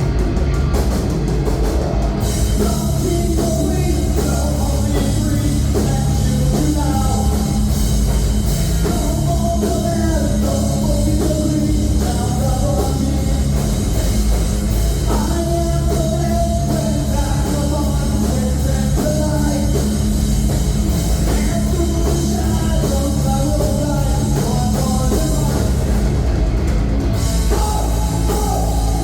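Rock band playing live and loud: guitars, bass and drum kit, with a singer's voice over them. The cymbals drop out for about a second near the end, then come back in.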